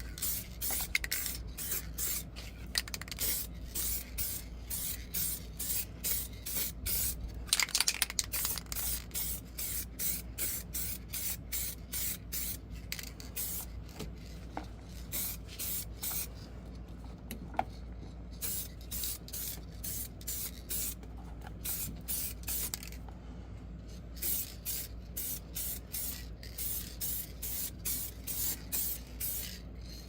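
Rhythmic hissing rubbing strokes, about two or three a second, over a steady low hum.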